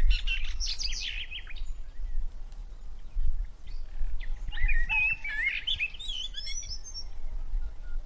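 Songbirds chirping and calling: a busy run of quick rising and falling notes in the first second and a half, a few scattered calls, then another busy run from about four seconds in, over a steady low rumble.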